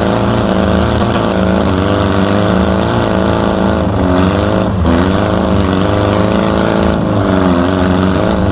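Air-cooled Volkswagen flat-four engine running under load, its pitch rising and falling several times as the throttle is worked, with a steady hiss over it.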